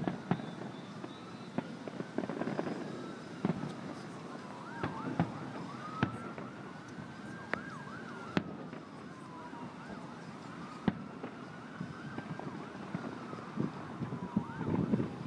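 Distant fireworks shells bursting in sharp, irregular bangs every second or few, over an emergency-vehicle siren wailing slowly up and down in pitch about every five seconds.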